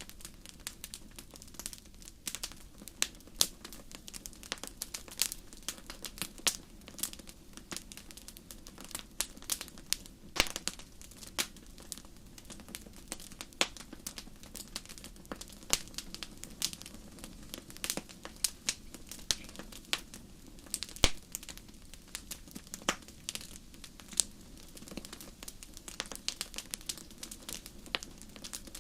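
Wood fire crackling in a fireplace: many sharp, irregular pops and snaps over a steady low hiss of the flames.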